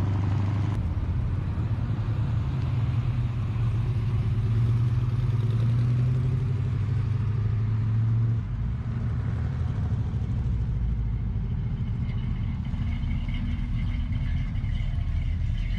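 A car engine running with a deep, steady rumble; about eight seconds in its note drops to a lower, lighter idle.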